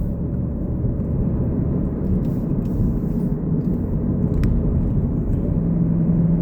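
Car driving along a road: steady low rumble of engine and tyres, with a steady low hum coming in near the end and a few faint ticks.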